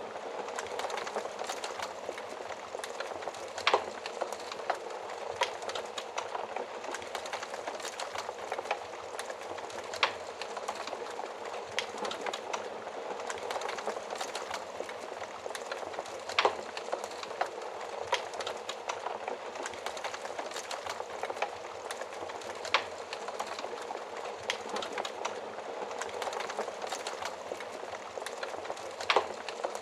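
Wood fire crackling steadily, with a constant hiss of burning and frequent small snaps, and a handful of louder pops every few seconds.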